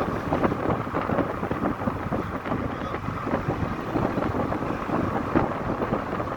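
Wind buffeting the microphone in a moving car: a steady rush of air with frequent short gusty thumps.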